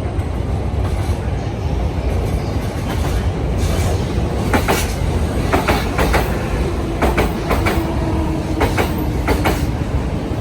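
Electric train running on the rails: a steady low rumble, with sharp wheel clicks over rail joints starting about four and a half seconds in, and a steady tone joining about seven seconds in.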